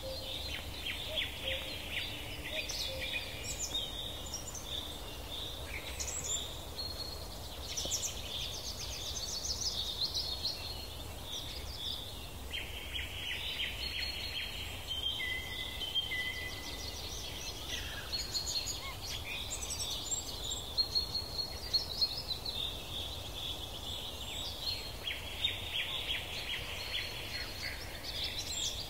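Songbirds singing: many overlapping high chirps and fast trills, over a low steady background rumble.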